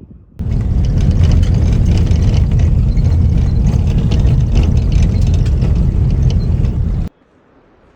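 Loud, steady vehicle rumble, heaviest in the low end with a rushing hiss above, starting abruptly just after the start and cutting off suddenly about seven seconds in.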